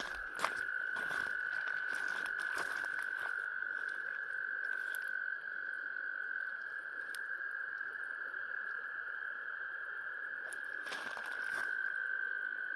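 Frog chorus: many frogs trilling in one steady, unbroken high drone, with scattered light taps and clicks in the first few seconds and again near the end.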